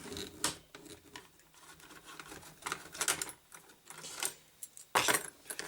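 Small hard clicks and clattering of a computer part being handled and turned over, in about four short clusters.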